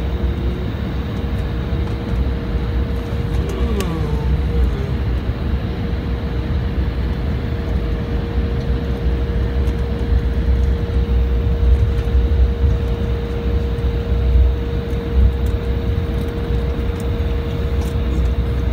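Cabin noise inside an Embraer E175 jet: the steady, heavy rumble of its GE CF34 turbofans and rushing air, with a constant hum and a brief falling tone about four seconds in.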